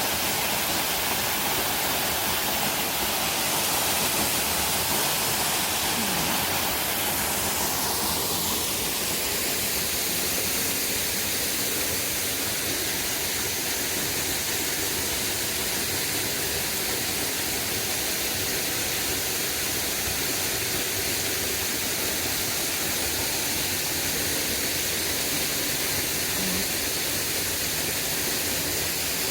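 Waterfall rushing: a steady, even roar of falling water, with its tone shifting briefly about eight seconds in.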